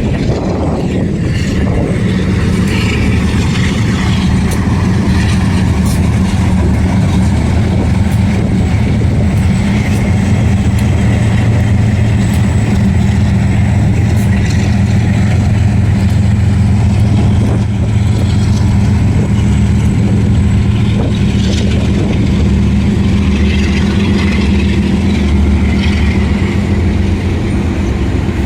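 CSX freight train running past: a steady low rumble of diesel locomotive engines, with scattered sharp clicks and squeaks from the wheels on the rails.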